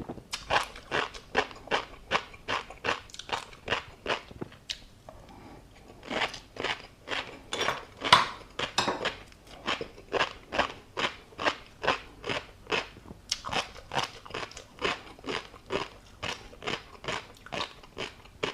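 A person chewing food with crunchy bites in a steady rhythm of about two to three a second, pausing briefly about five seconds in.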